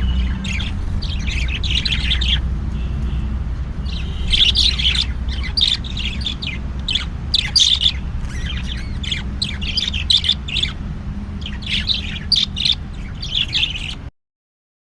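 Budgerigars chirping and chattering in quick, busy runs of short calls over a steady low hum. The sound cuts off abruptly about fourteen seconds in.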